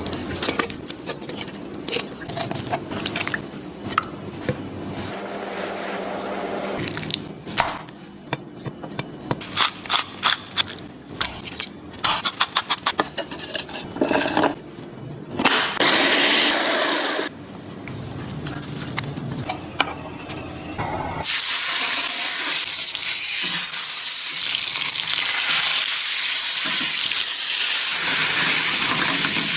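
Kitchen preparation sounds, irregular clicks, knocks and splashing water, then about two-thirds of the way through a steady sizzle of food frying in a hot pan takes over.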